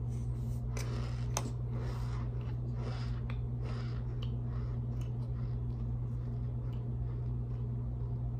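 Mouthfuls of dry cornstarch crunching and squeaking as they are chewed, in a run of short crackles that thin out after the first few seconds, with one sharp click about a second and a half in. A steady low hum runs underneath.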